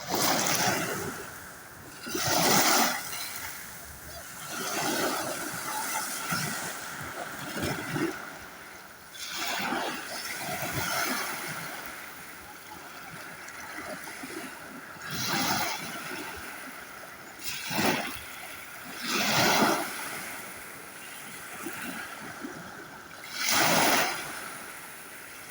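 Sea waves washing and splashing, surging irregularly every two to four seconds.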